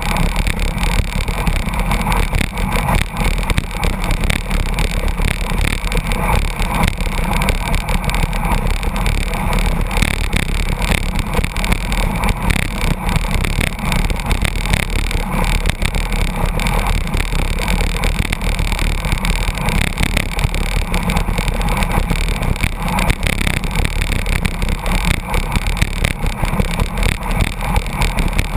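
Loud, steady rush of wind over the microphone with low road and engine rumble, from a road bicycle drafting close behind a truck at about 82 km/h.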